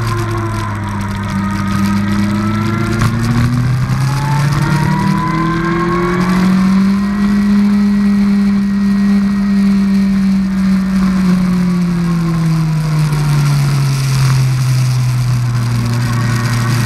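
2003 Yamaha R1's inline-four engine under way: it revs up through a gear, drops briefly at an upshift about three and a half seconds in, and climbs again to a high, steady note. Later it falls away as the throttle is rolled off and settles at a lower, steady pitch near the end.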